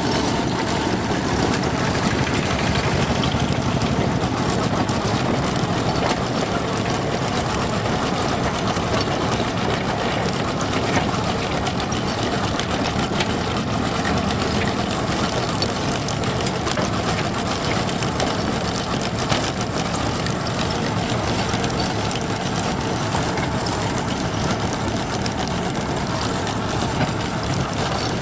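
Diesel engine of a JCB 3DX backhoe loader running steadily, with a single sharp knock about two-thirds of the way through.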